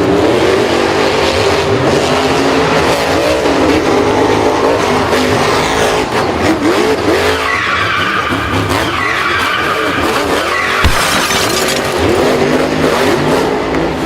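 Several vehicle engines revving up and down with tyre skidding and squealing, loud and continuous, with engine pitch rising and falling throughout.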